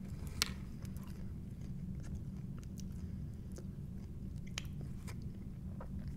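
A person chewing pieces of Domino's pizza crust, with a few sharp, scattered crunches over a steady low hum.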